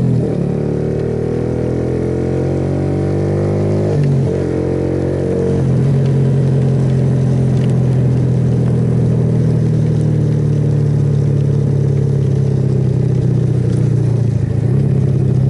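Suzuki Yes motorcycle engine pulling up through the revs, with a gear change about four seconds in, then holding a steady cruise. A steady hiss of wind and wet road runs underneath.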